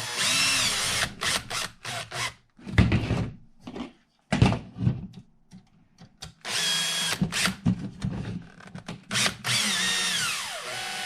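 Cordless drill/driver running in about five short bursts as it drives screws. Its motor whine rises and falls in pitch with the trigger and winds down with a falling whine near the end, with short clicks in between.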